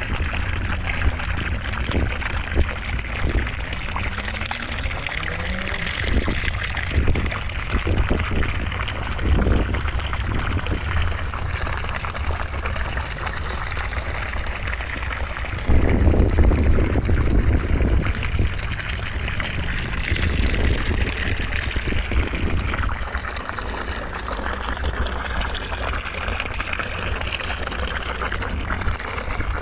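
Continuous white noise: a steady rushing hiss over a deep rumble, with a brief louder surge about sixteen seconds in.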